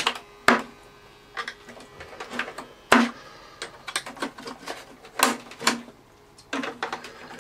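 Irregular sharp clicks and knocks of the inner tray of an Electrolux Z345 Automatic vacuum cleaner being handled and worked loose. The tray is stiff to free.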